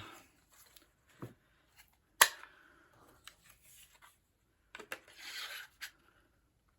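Craft paper punch snapping through cardstock with one sharp click about two seconds in, amid paper rustling, a few lighter clicks and a short papery scrape near the end.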